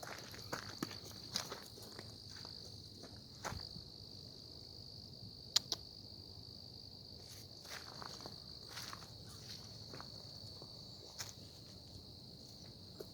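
A steady high-pitched insect chorus, like crickets trilling, with scattered crunching footsteps on the trail and a sharp click about five and a half seconds in.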